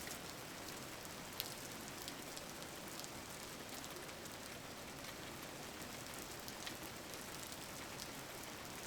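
Steady rain falling on a surface, an even hiss with scattered drop clicks.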